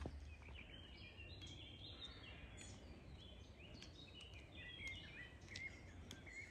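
Faint birdsong: a small songbird singing short repeated phrases of chirps over quiet background noise.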